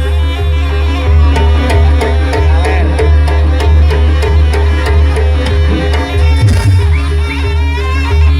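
Jaranan Buto music, a traditional Javanese ensemble: hand drums and deep gongs under a steady beat of sharp metallic strikes, with a wavering melody line above.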